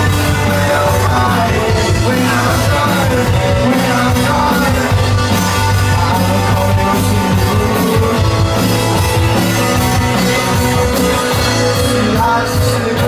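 A rock band playing live, loud and steady, with drums and bass under sung vocals.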